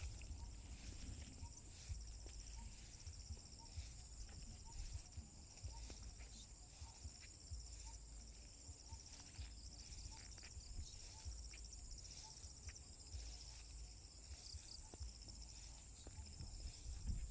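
Countryside insects, crickets among them, singing in a steady high chorus with a fast pulsing trill, faint over a low rumble and scattered soft ticks.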